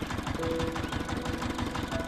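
Small engine of a DIY miniature farm vehicle running steadily with a rapid, even chugging beat.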